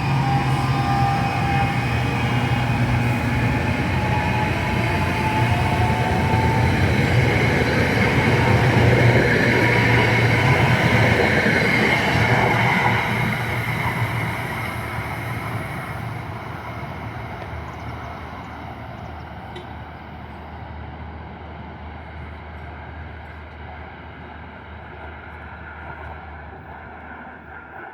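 A passing train runs by, loudest about ten seconds in, then fades steadily as it moves away.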